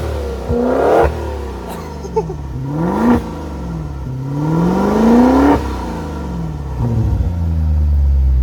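2019 Maserati Levante GTS's 3.8-litre twin-turbo V8 being revved in place: three rising revs, the last one slower and longest, each falling back between, then a small blip before it settles to a steady idle near the end.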